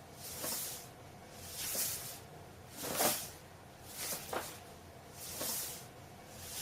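An animal breathing noisily, one hissing breath about every 1.2 seconds in a steady rhythm.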